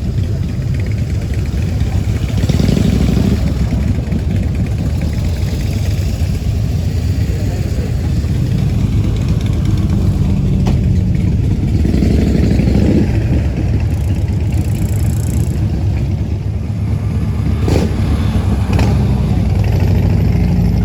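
Ford Escort RS Cosworth's turbocharged four-cylinder engine running as the car is driven, with the revs rising briefly about three seconds in and again about twelve seconds in. A couple of sharp clicks come near the end.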